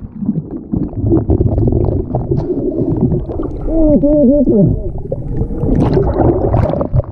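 Water sloshing and splashing with rumbling knocks against a kayak and the camera, with a short wavering, voice-like tone about four seconds in.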